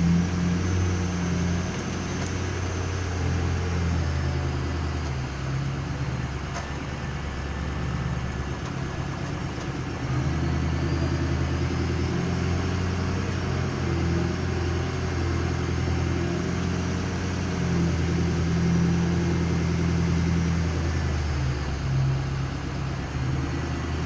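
Ford F-250's Power Stroke diesel V8 running under light load as the truck drives an off-road trail. The engine note eases off for a few seconds near the middle and picks up again.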